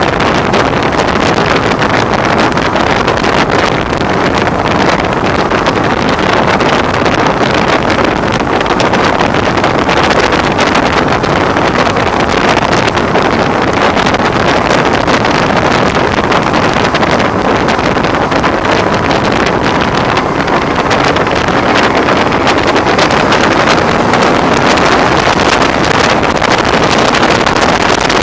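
Heavy wind noise rushing over the microphone of a moving BMW R1100R motorcycle, a loud, steady rush that covers the engine. The rider puts it down to the windscreen.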